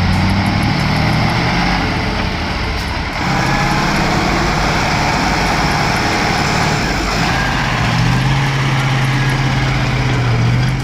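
Heavy truck engine running steadily off-road, with a brief break about three seconds in and the engine note shifting higher about eight seconds in.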